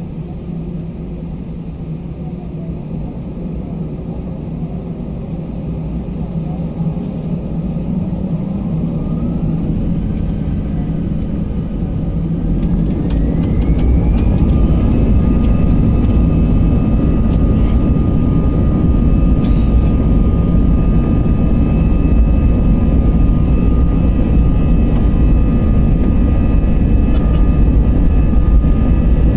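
Airbus A320-214's CFM56 jet engines spooling up for take-off: a whine rises in pitch about eight to fourteen seconds in as thrust builds. It then settles into a steady multi-tone whine over a heavy rumble that keeps growing louder through the take-off roll.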